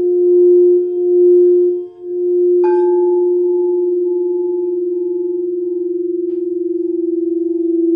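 Singing bowl sounding a steady low ringing tone that swells and dips about once a second, then struck once about two and a half seconds in, adding a higher ringing overtone that fades while the low tone rings on.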